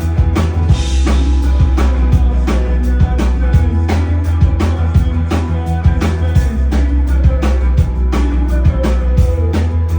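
Live band playing a rock song: a steady drum-kit beat over heavy bass and guitar, with a cymbal crash about a second in.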